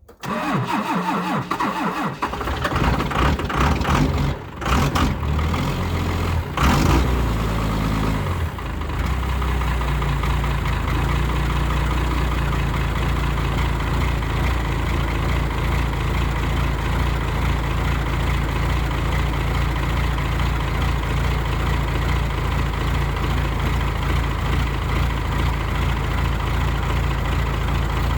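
A 1994 Dodge Ram's 12-valve Cummins 5.9 L inline-six diesel on a cold start at −16 °C after two weeks unplugged: it cranks on weak batteries, catches about two seconds in and runs unevenly, then settles into a steady idle about nine seconds in, through a 4-inch exhaust.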